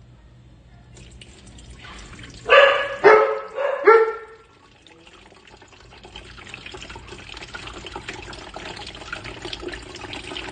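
A dog barks three times in quick succession, about two and a half seconds in. An electric kettle heating water then gives a rising hiss with fine crackling.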